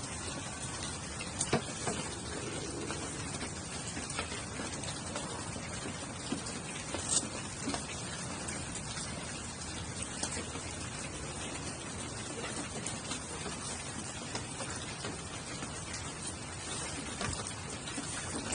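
Steady rain falling, an even patter, with a few sharp taps or clicks, the loudest about a second and a half in and about seven seconds in.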